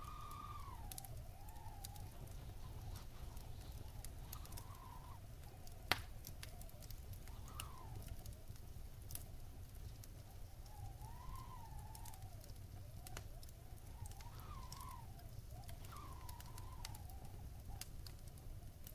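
Wood fire burning in a fireplace: a steady low rumble of flames with scattered crackles and one sharp, louder pop about six seconds in. Over it, a wavering whistling tone rises and falls in slow swells every few seconds.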